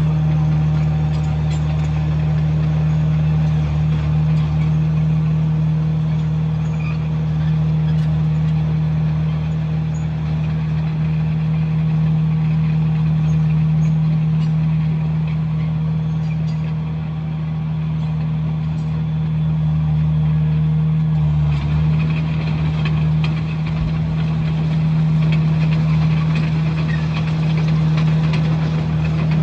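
Komatsu bulldozer's diesel engine running steadily at a constant pitch, with a little more high-pitched clatter and track noise from about two-thirds of the way through.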